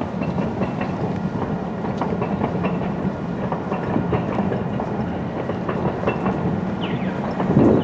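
A train rolling along the track, a steady low running noise with a few scattered clicks.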